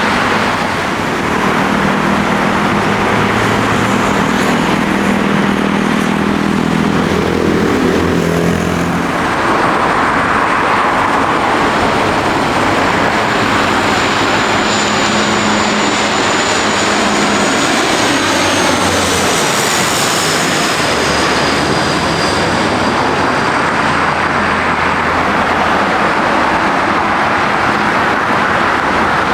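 Dash 8 Q400 turboprop landing and passing close by: a propeller hum approaches, swells into a broad rush about nine seconds in, and a high whine drops in pitch as the aircraft goes past.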